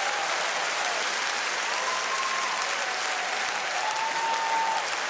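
Large audience applauding steadily, with a faint thin tone above it that holds and shifts in pitch a few times.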